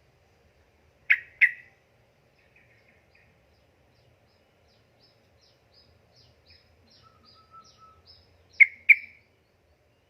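Sooty-headed bulbul (trucukan) calling: a loud, sharp double note about a second in and another near the end, with a run of faint, short high chirps between.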